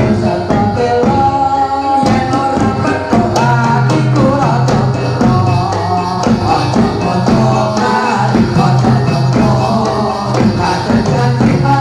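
Live jatilan dance music: a sung melody carried over melodic instruments with drumming and jingling percussion, playing continuously.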